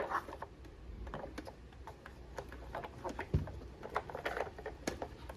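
Scattered light clicks and taps of a plastic toy van being handled, with one duller knock about three seconds in.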